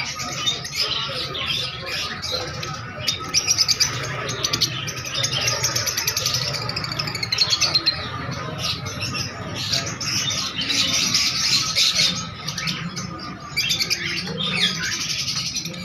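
Many small cage birds chirping and squawking together in a dense, continuous chatter, with rapid runs of ticking calls, over a steady low hum.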